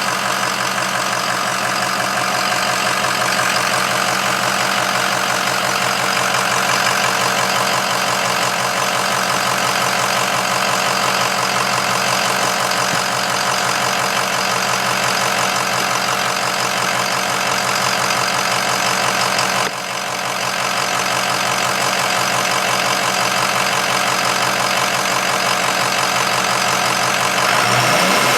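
Ford 6.0 Power Stroke turbo-diesel V8 idling steadily, with an awful noise from the turbocharger that gets louder and nastier the faster the turbo spins. The noise appeared after the turbo was cleaned and refitted. The sound dips briefly about twenty seconds in.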